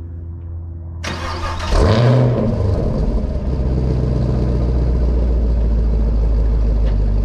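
Chevrolet Camaro engine starting: the starter cranks about a second in, the engine catches with a loud rev flare that rises and falls, then settles into a steady idle.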